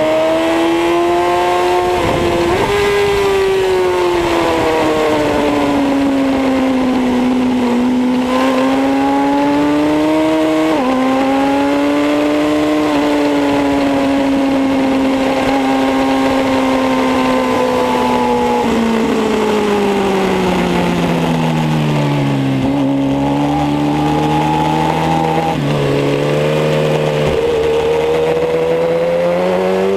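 Kawasaki ZX-10R's inline-four engine at track speed, its pitch rising and falling with the throttle and jumping at gear changes. A little past the middle it falls steadily in stepped downshifts as the bike slows, then pulls up again near the end, over a steady rush of wind noise.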